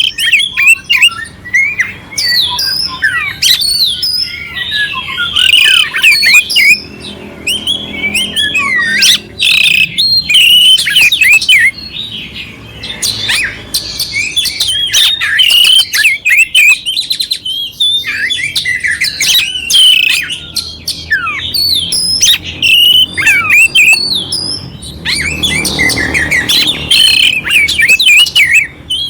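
Oriental magpie-robin singing without pause: a rapid, varied stream of clear whistles and sliding notes mixed with harsh, rough chattering.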